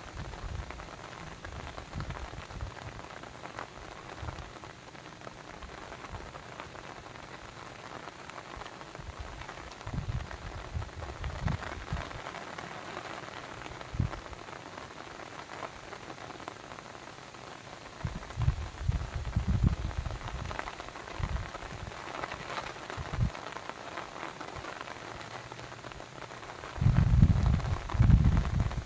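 Steady rain pattering, with several bursts of low rumble, the loudest near the end.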